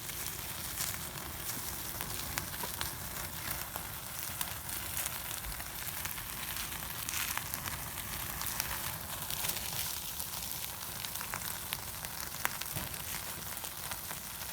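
Meat sizzling on a grill over a wood fire: a steady hiss with many small sharp crackles scattered throughout.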